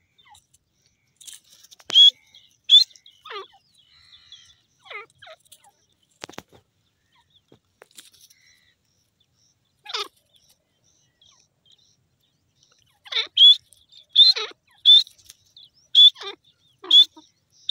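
Francolin (teetar) calling: short, sharp, high notes, each with a falling tail. The calls come singly and spaced apart at first, then in a faster run of loud calls over the last few seconds.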